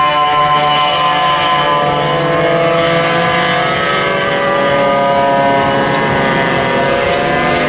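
Several vintage go-kart engines running hard at high revs together, their pitches drifting slowly up and down as the karts run around the track.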